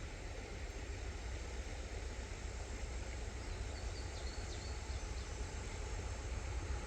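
Low, steady rumble of an approaching CSX freight train led by GE AC44CW diesel locomotives, slowly growing louder.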